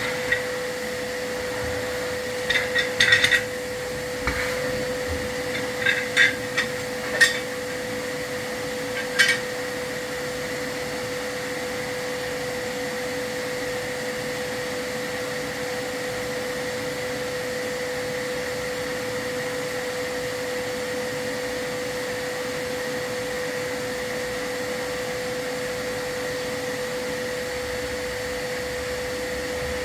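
A vacuum runs steadily with a constant hum while hard knocks and clatters sound in a cluster during roughly the first ten seconds, then stop.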